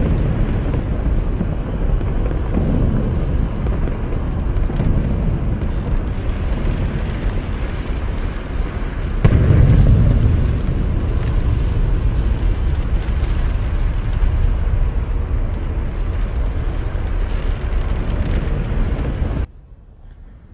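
Sound effect of a volcanic eruption: a low, continuous rumble that swells into a heavier blast about nine seconds in, then cuts off suddenly shortly before the end.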